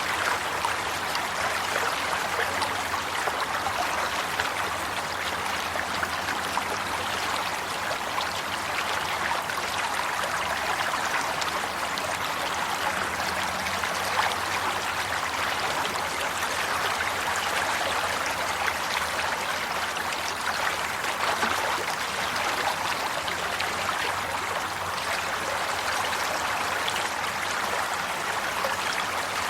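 Water running steadily over rocks in a stream, with a continuous rushing and babbling that does not change.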